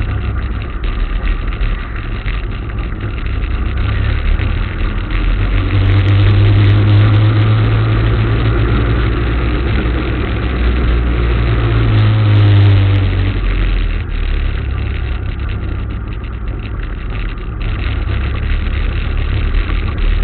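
Motorcycle engine running steadily, louder for several seconds in the middle.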